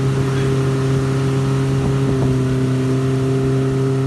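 Speedboat's motor running flat out at full throttle, heard up close from the back of the boat: a loud, steady drone holding one pitch.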